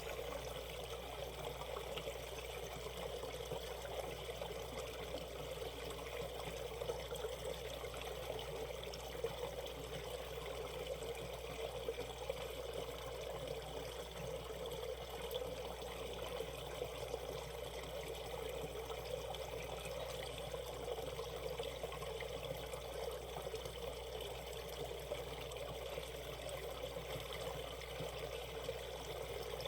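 Shallow valley stream running steadily over its rapids, an even rush of water.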